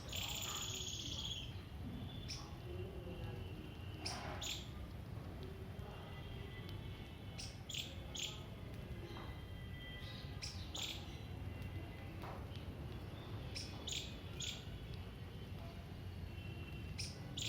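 Small birds chirping: short high chirps, singly and in quick pairs every few seconds, over a low steady rumble.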